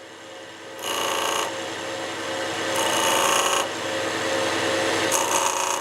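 Wood lathe running with a steady hum while a pencil is pressed three times against the spinning pine blank, each pass a scratchy rub lasting under a second, darkening the layout lines on the stock.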